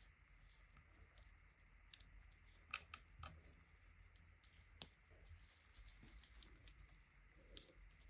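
Faint, scattered small clicks and short crisp snips and rustles of hand work on parts, with one sharper click about five seconds in.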